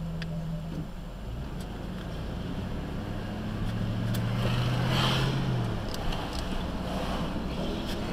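A vehicle's engine and road noise heard from inside the cab while driving in city traffic. The engine note holds steady, then drops away about six seconds in. A broad swell of noise rises and fades around five seconds in.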